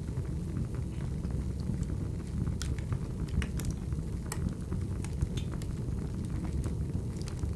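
Wood fire burning: a steady low rumble of flames with scattered sharp crackles and pops from the burning logs, thickest in the middle.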